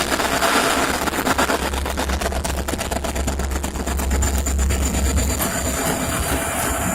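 Diesel freight locomotives running, with a steady low engine drone and rapid clicking throughout.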